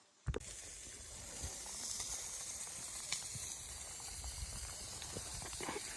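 Blizzard wind blowing: a steady high hiss of wind and driven snow with low, uneven rumbling from gusts, starting suddenly about a quarter second in.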